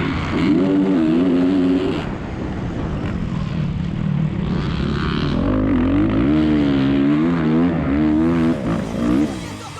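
Motocross motorcycle engines running hard, the pitch swinging up and down again and again as the throttle is opened and chopped, loudest in two spells.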